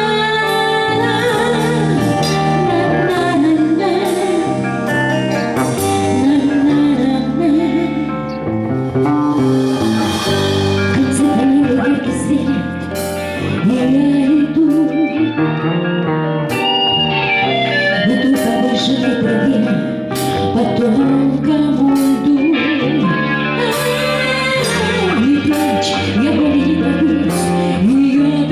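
Live band playing a pop-rock song: guitar, bass and drums with a wavering sung melody line and no clear words.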